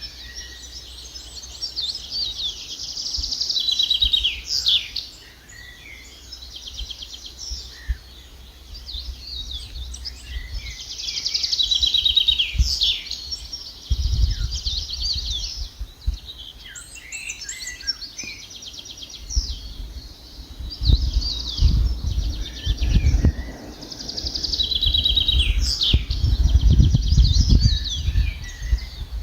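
A songbird singing: phrases of fast trills and quick whistled notes, each a few seconds long and repeated every several seconds. Bursts of low rumble come in under the song in the second half.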